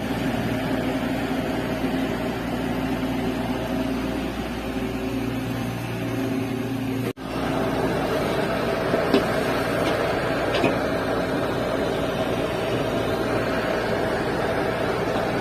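SANY SY140 excavator's diesel engine running steadily, with a sudden break about seven seconds in and a few light knocks shortly after.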